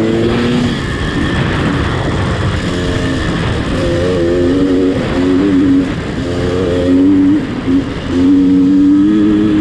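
A motor vehicle engine running with the throttle changing: its pitch climbs, holds steady for stretches and shifts again, over a constant low rumble.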